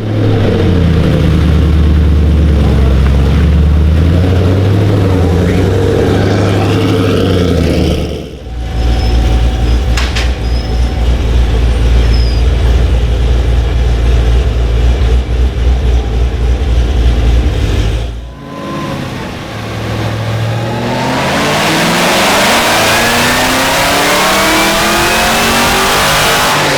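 Drag car engines at the strip: about eight seconds of an engine held at steady revs, then after a cut about ten seconds of a heavy low rumble. After a second cut, an engine accelerates hard with its pitch rising steadily, as on a pass down the track.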